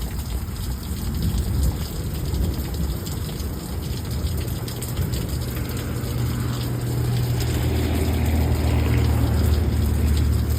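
Heavy rain and rushing floodwater run-off in a steady wash, with a low steady rumble that grows louder about halfway through.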